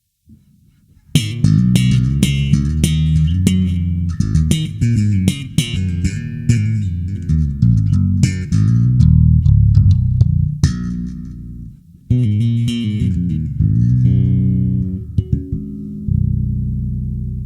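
Felton electric bass played as a run of quick plucked notes with sharp attacks, a short break near twelve seconds, then more notes ending on one held, sustained note.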